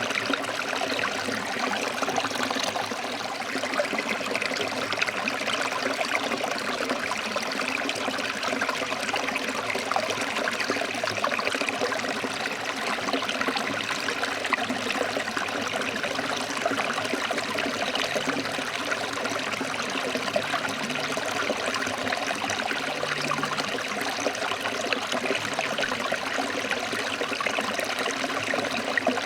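A forest stream flowing over rocks: steady rushing and trickling water.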